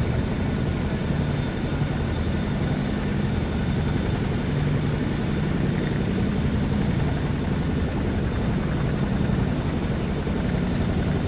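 Aircraft engine noise on an airfield: a steady low rumble with a constant high whine over it, unchanging throughout.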